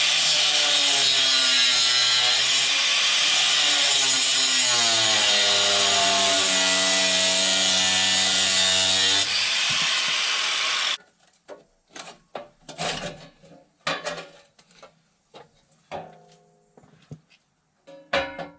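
Grinder with a cut-off wheel cutting through steel: a loud high hiss with the motor's whine dipping in pitch and recovering as it loads up, stopping about eleven seconds in. After it, scattered light clanks and knocks of metal being handled.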